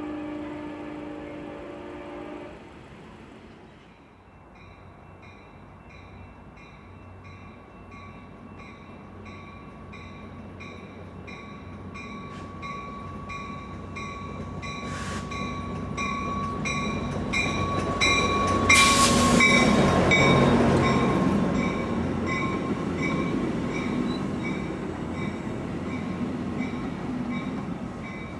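An Amtrak San Joaquin passenger train approaches and passes while a railroad crossing bell rings about twice a second. A horn chord sounds briefly at the start. The train's rumble builds to its loudest about two-thirds of the way in, then fades.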